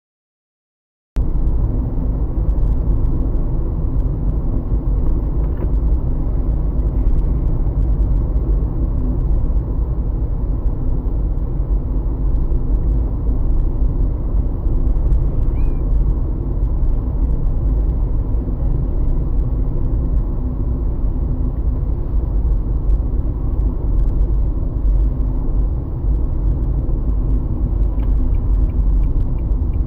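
Steady low rumble of a car driving on the road, engine and tyre noise, cutting in suddenly about a second in.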